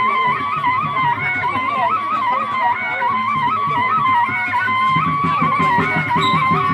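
Sasak peresean music: a serunai reed pipe plays a wavering, ornamented melody over drum strokes, and the drumming gets busier about five seconds in.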